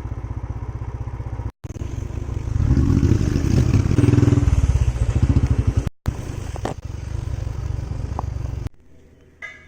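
Motorcycle engine running while riding, with a steady low pulsing drone that grows louder for a few seconds mid-way. The sound breaks off briefly twice and stops suddenly near the end.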